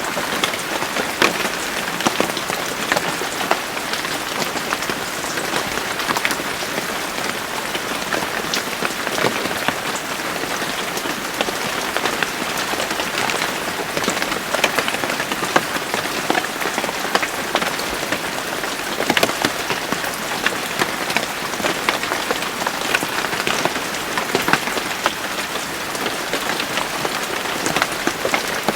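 Steady rain falling on a surface, an even hiss dotted with many individual drop ticks.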